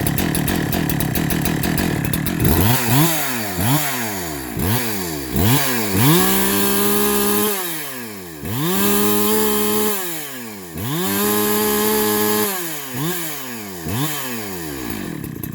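Husqvarna 372XP two-stroke chainsaw, freshly rebuilt with a 50 mm, 71 cc cylinder, running and being revved. After a couple of seconds of steady running come four quick throttle blips, then three runs held at full throttle for about a second and a half each, then a few more quick blips near the end.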